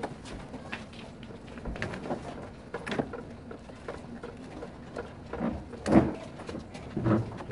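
Scattered light clicks and small knocks of hands working a washing machine's inlet hose fitting onto a tap, with a short low sound about six seconds in and another near the end.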